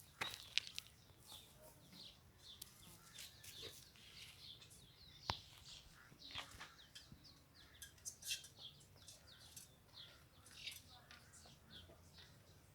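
Faint chirping of small birds: many short, high calls scattered throughout, with a sharp click about five seconds in.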